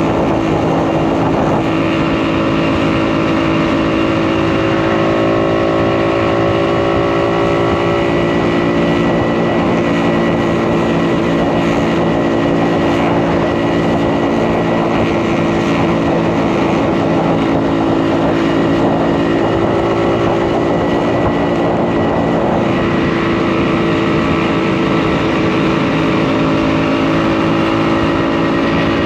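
Single-cylinder two-stroke engine of a 1952 DKW RT 200H motorcycle running under way at steady road speed. The engine note shifts twice, like a change of throttle or gear.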